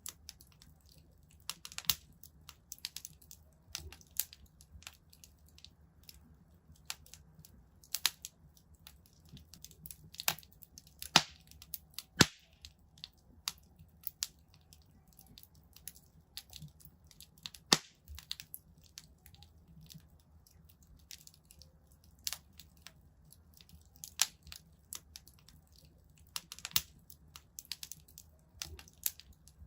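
Wood fire in a fireplace crackling, with irregular sharp pops and snaps over a faint low rumble. The loudest snaps come around the middle.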